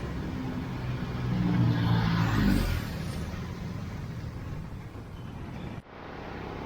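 A motor vehicle's engine passes close by on a busy street. It grows loudest about two seconds in and then fades into steady traffic noise, with a brief sudden dip in sound near the end.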